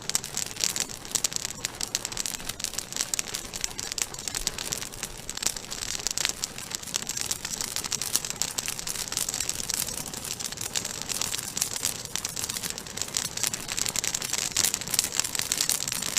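Campfire of live, wet pine burning hard: a dense, rapid crackle of small sharp pops.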